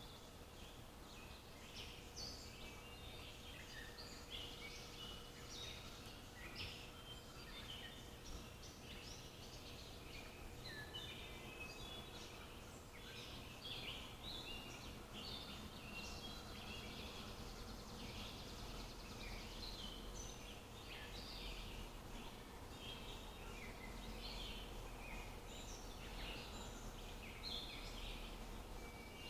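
Several small birds chirping and twittering in a quick, continuous chorus over faint, steady background noise.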